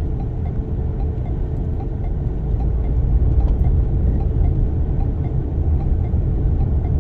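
Cabin noise of a Toyota Sienna minivan driving slowly through a snowstorm: a steady low rumble of tyres, engine and wind, with a faint steady hum above it.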